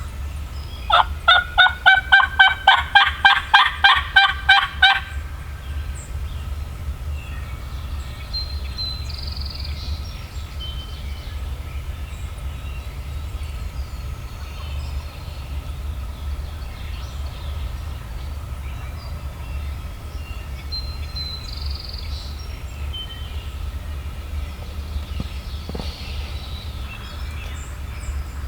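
A run of about fifteen loud, evenly spaced turkey yelps, about four a second, lasting some four seconds. After that, only faint songbird chirps over a low steady hum.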